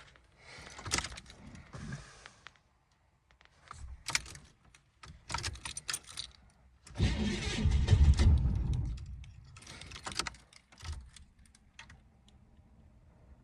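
Old car engine cranking over for about two and a half seconds in a cold start without catching, after weeks of sitting unused. Keys jangle and click in the ignition before and after the crank.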